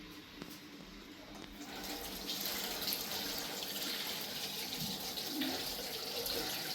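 Water running steadily, like a tap, starting about two seconds in.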